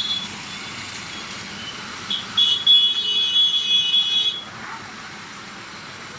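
A vehicle horn sounds for about two seconds, a steady, high-pitched blare, over the constant hiss of road and traffic noise.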